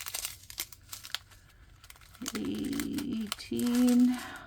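Small plastic baggies of diamond painting drills crinkling and rustling as they are handled, with a woman's voice for the last couple of seconds.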